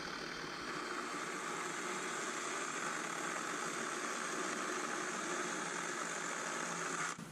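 Cordless battery chainsaw, a 12-inch-bar model run on two 18-volt batteries, running steadily at speed, then stopping abruptly near the end.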